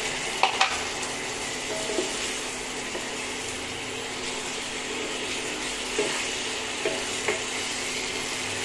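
Chicken pieces sizzling in a yogurt-and-spice masala in a nonstick kadai while being stirred and sautéed with a wooden spatula. A steady sizzle, with a few light knocks of the spatula against the pan.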